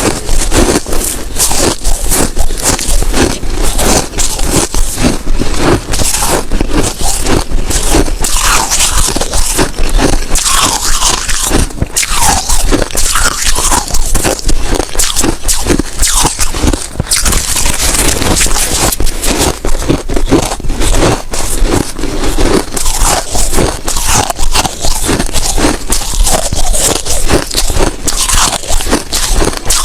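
Close-miked biting and chewing of hard snow ice: a dense, unbroken run of crunches and crackles.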